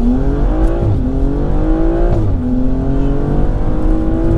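BMW M235i's turbocharged 3.0-litre straight-six at full throttle from a launch-control start, heard from inside the cabin. The engine note climbs, drops at an upshift about a second in, climbs again to a second upshift a little over two seconds in, then rises more slowly in the next gear.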